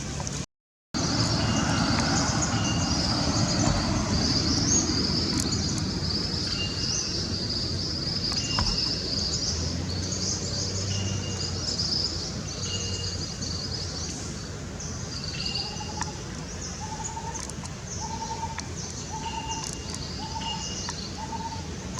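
Birds calling: busy high chirping throughout, and from about three-quarters of the way in a low hooting note repeated a little more than once a second.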